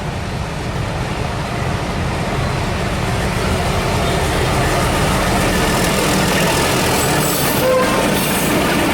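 A freight train drawn by a diesel-electric locomotive approaching along the track. Its engine rumble and rolling noise grow steadily louder.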